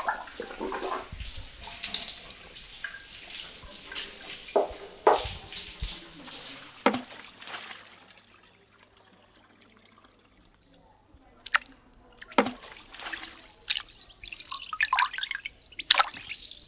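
Bathroom water splashing and dripping with sharp single drips, as in rinsing at a basin. It goes nearly silent for about three seconds past the middle, then drips and splashes of bath water start again.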